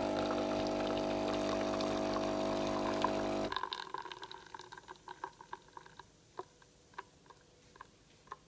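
Aldi Expressi pod espresso machine's pump humming steadily as the single shot pours, cutting off suddenly about three and a half seconds in. After it, coffee drips into the cup, a couple of drops a second at first, then slowing.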